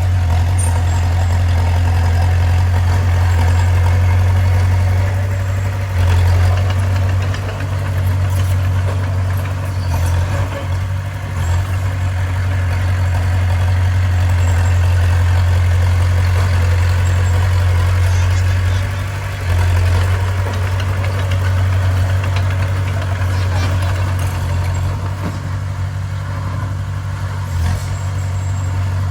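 Bulldozer's diesel engine running steadily, a deep low drone with a few brief dips in level.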